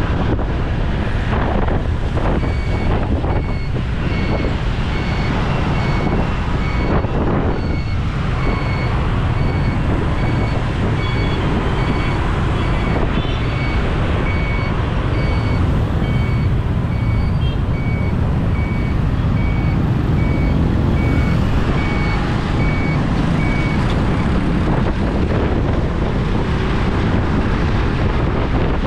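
Wind buffeting the microphone of a camera on a moving motorbike, over traffic noise. A short electronic beep at one fixed pitch repeats about once a second from a few seconds in until a few seconds before the end.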